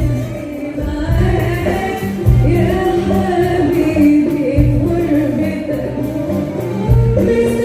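A choir singing a song with instrumental accompaniment and a recurring low beat.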